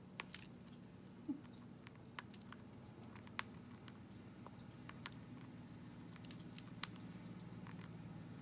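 Irregular sharp clicks and taps from a cockatoo's beak, about ten of them scattered through a few seconds, with a faint steady low hum underneath.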